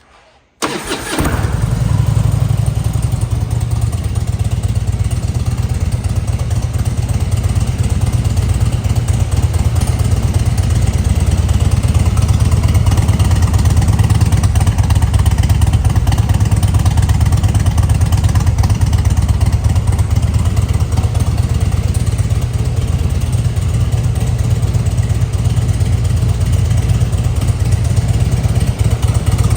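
2004 Harley-Davidson Heritage Softail Classic's fuel-injected Twin Cam 88B V-twin, fitted with a Stage 1 exhaust, starting about half a second in and then idling steadily.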